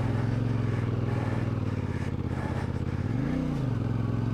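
CFMOTO 450MT's parallel-twin engine running steadily under load as the bike pushes through deep sand, with one short rev that rises and drops back about three seconds in.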